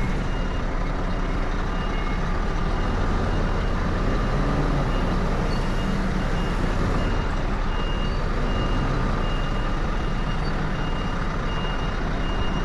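Truck reversing alarm beeping steadily in short, evenly spaced high beeps over a diesel engine's steady low running.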